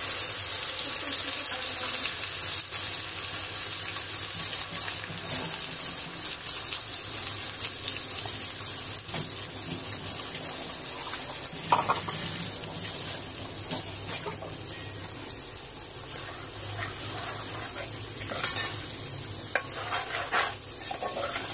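Onion paste frying in hot oil in an aluminium pot: a steady sizzle with fine crackle that eases a little after the middle. Near the end a metal slotted spoon clinks and scrapes against the pot as the paste is stirred in.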